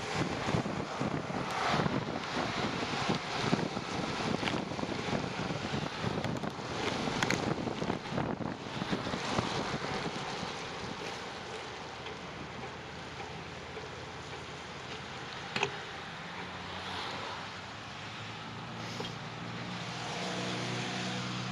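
Wind buffeting the microphone in choppy gusts, easing into a steadier rush after about ten seconds; a low engine hum comes in for the last few seconds.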